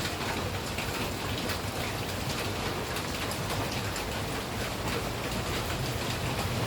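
Steady rain falling, with many separate drops pattering on a surface over a low steady rumble.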